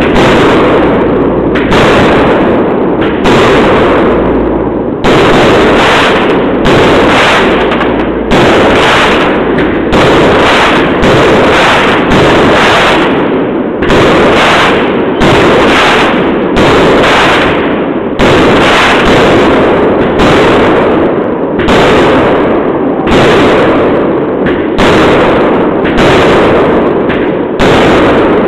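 Fireworks going off in a steady barrage: a loud, sharp bang about once a second, each trailing off before the next.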